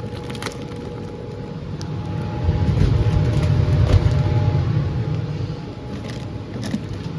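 Laminar flow hood blower running steadily, a low roaring with a steady hum in it. For a couple of seconds in the middle a louder low rumble rises over it, with a few light clicks and knocks of handling.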